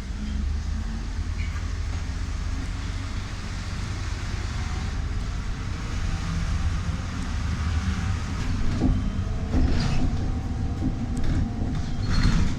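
Trolleybus moving, heard from inside: a steady low rumble of the ride with rattles and knocks in the second half.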